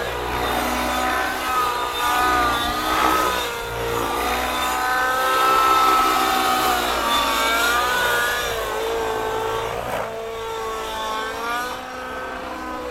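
Gaui NX7 RC helicopter's glow (nitro) engine and rotors running in flight, a steady whine whose pitch keeps rising and falling as the engine speed changes.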